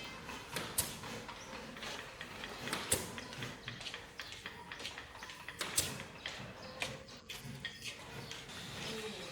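Irregular light clicks and knocks of small hard parts being handled, a few sharper than the rest.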